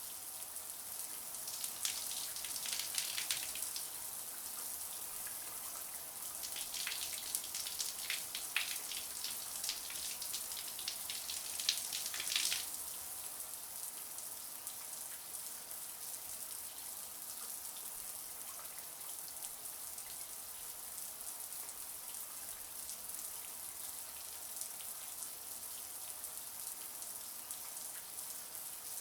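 Shower spray running as a steady, hissing rush of water. The spatter grows louder and more uneven about two seconds in and again from about six to twelve seconds in.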